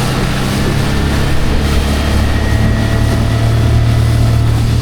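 Small boat's outboard motor running steadily at low speed, a constant low drone under an even rush of noise.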